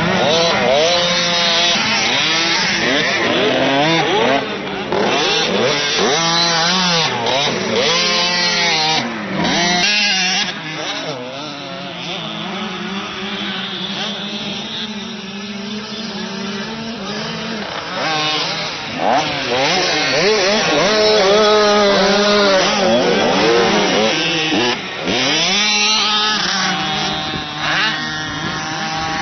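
Motocross motorcycle engines on a dirt track, revving up and down over and over as the bikes accelerate and change gear, the pitch rising and falling repeatedly.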